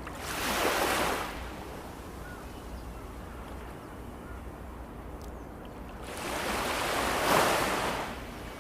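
Ocean waves washing onto a sandy beach: two surges of surf, the second about six seconds after the first and a little longer, over a steady low rumble of the sea.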